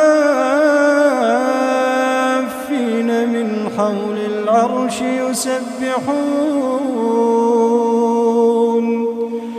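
A man reciting the Quran in a slow, melodic chanting style, drawing out long held notes with ornamented turns and stepping down in pitch a few times.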